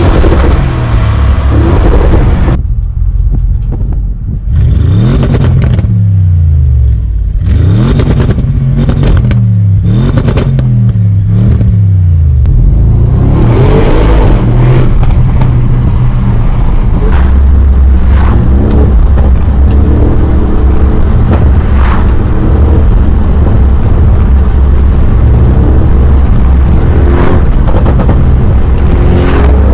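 Audi RS6's twin-turbo V8 heard from inside the cabin, revving up hard several times in quick succession, each climb in pitch broken off by an upshift, from about five to twelve seconds in. After that it runs loud and steady under load along with road noise, with a few brief sharp noises.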